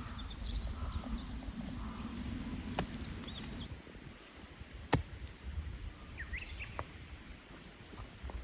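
Outdoor countryside ambience: birds chirping now and then over a low rumble, with two sharp clicks about two seconds apart near the middle.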